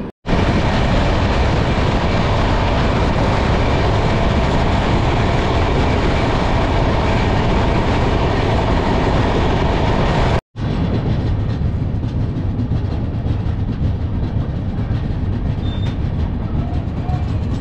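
Express passenger train running on the track, a steady loud noise of wheels and coaches on the rails. About ten seconds in the sound cuts briefly to silence and resumes, slightly softer in its upper range.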